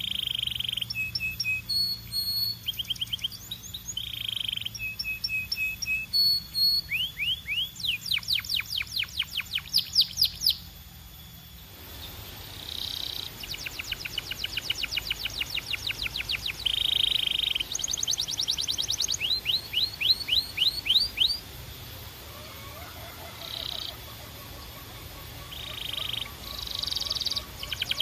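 Canary singing: runs of fast, high-pitched trills and rising chirps, with a short pause about eleven seconds in and softer notes for a few seconds past the twenty-second mark.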